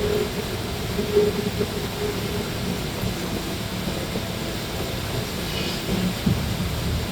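A packing machine running steadily, an even mechanical rumble and hum with no strokes or rhythm standing out.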